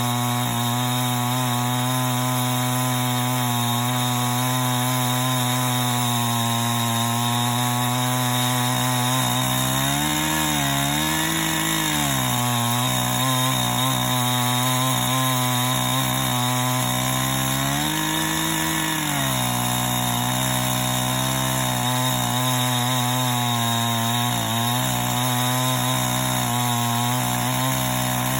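Two-stroke chainsaw on a chainsaw mill attachment running steadily under load while ripping a plank lengthwise from a log. Its engine note rises briefly twice, once about a third of the way in and again about two-thirds in.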